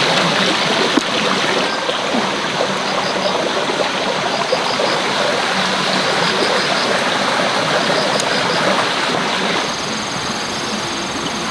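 Steady rushing noise of running water, like a stream, with faint short chirps over it; a faint high buzz joins near the end.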